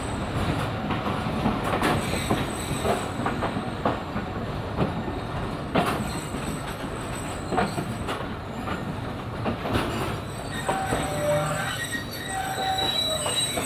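Shalimar Express passenger train running on the rails, heard from aboard, with a steady rumble and irregular knocks from the wheels and coaches. Thin steady tones come in over the last few seconds as it runs into a station.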